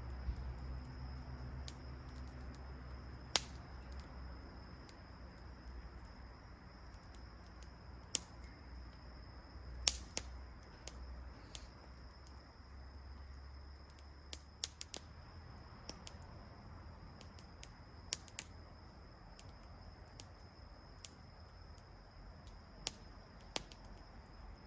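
Wood campfire crackling: irregular sharp pops and snaps, a dozen or so, scattered over a low rumble.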